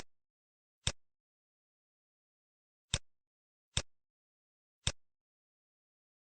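Computer mouse clicks, five sharp single clicks at uneven intervals with dead silence between them.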